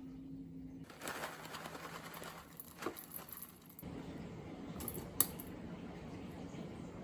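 Small handling noises: rustling with scattered sharp clicks and taps, one louder click about five seconds in, over a faint low hum.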